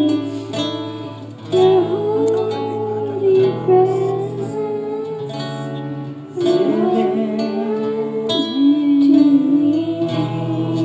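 A voice singing a slow song, with acoustic guitar accompaniment.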